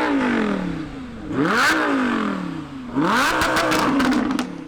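A car engine revved three times, each rev climbing quickly in pitch and falling away more slowly. The third rev is held near the top with a rapid run of sharp crackles before it drops.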